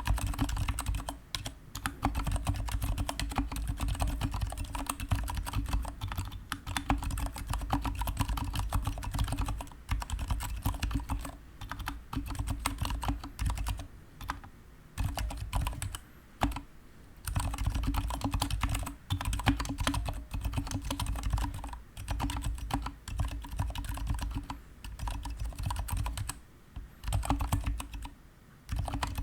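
Fast typing on a GK61 mechanical keyboard with stock Gateron silent brown switches and PBT pudding keycaps: dense runs of damped keystrokes with a deep low thock, broken by a few short pauses.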